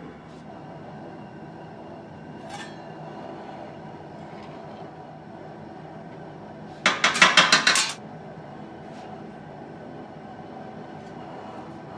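A quick run of metal-on-metal clinks and clatter, about eight strikes in a second, a little past halfway, over the steady rush of the turkey-cooker burner melting the lead.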